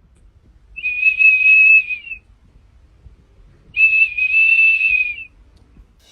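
Two long, high whistles, each held at one steady pitch for about a second and a half, the second coming about a second and a half after the first ends.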